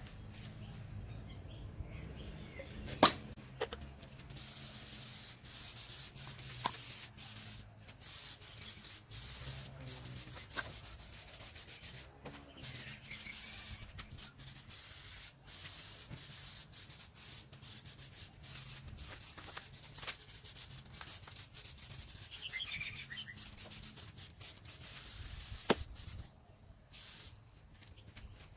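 Tire shine sprayed over an engine bay: a hiss in many short bursts with brief breaks, stopping near the end. A few sharp clicks, the loudest about three seconds in and near the end, over a low steady hum.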